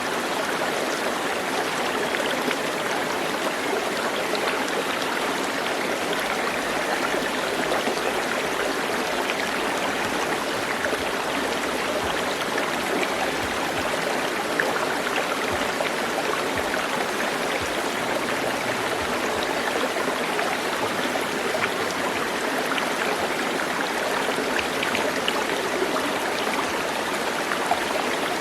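Running water, such as a stream, making a steady, even rush with many small splashes and drips.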